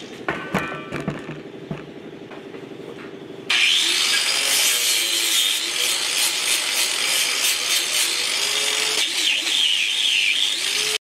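A few light knocks and clicks, then about three and a half seconds in a handheld power tool starts suddenly, scrubbing or abrading metal with a harsh, hissing noise whose pitch wavers as it is pressed against the work, typical of a wire brush or abrasive cleaning an engine block.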